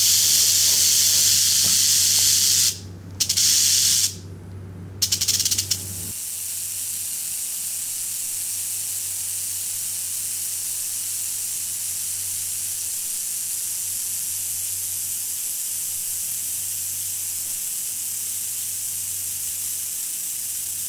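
Rattlesnake rattling: a dense, high buzzing hiss that stops twice briefly in the first few seconds, then goes on steadily and a little quieter.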